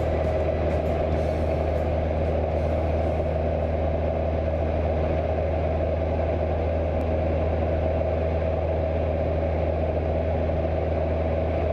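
Cessna 172's piston engine and propeller running steadily, a constant low drone that neither rises nor falls.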